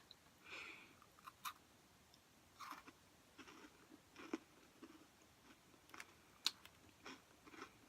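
A person chewing a crunchy peanut butter chocolate granola cup: faint, irregular crunches and small mouth clicks.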